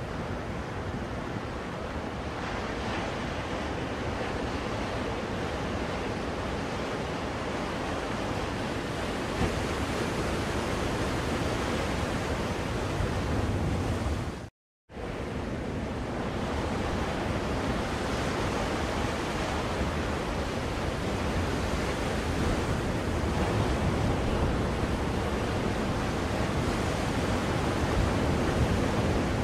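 Ocean surf played as white noise for soothing a baby: a dense, steady wash of breaking waves. It cuts out completely for a split second about halfway through, then carries on.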